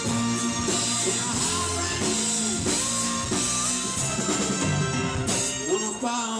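Live rock band playing an instrumental passage, with drum kit and guitar.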